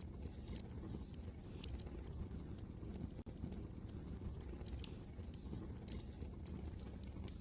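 Wood fire crackling, with irregular sharp pops and snaps over a steady low rumble of wind.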